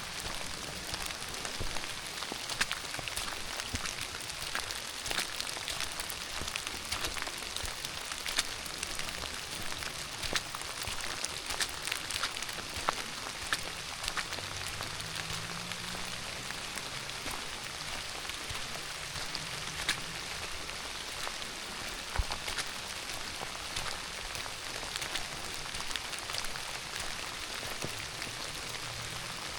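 Steady rain falling, a constant hiss dotted with the ticks of individual drops landing close by.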